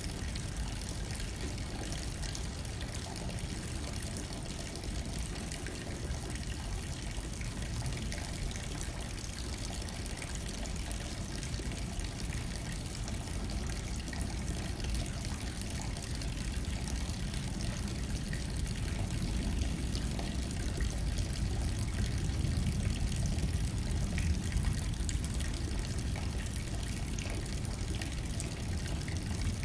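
Steady rain hitting a window pane, with a low wind rumble that grows louder in the second half.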